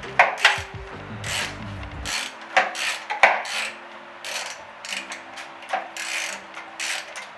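Hand ratchet wrench working nuts loose in short strokes, each swing a brief burst of ratcheting clicks and metal scraping.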